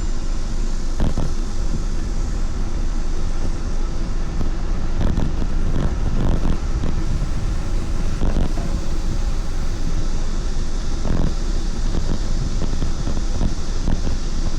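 Steady wind rush on the microphone of a camera carried on a moving ride, with a few short knocks and rattles along the way.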